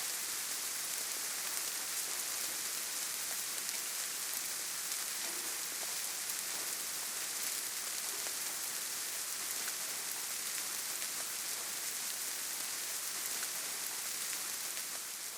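Gentle, steady rain: an even hiss with scattered ticks of individual drops. It starts to fade out near the end.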